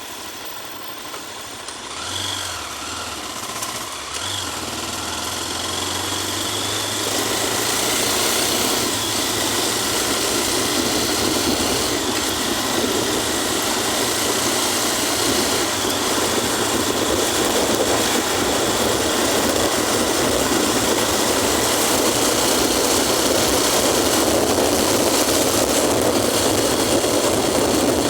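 Vehicle engine running with a low hum at first, then a steady rushing road noise that builds over the first several seconds and holds, as of a vehicle getting under way and moving.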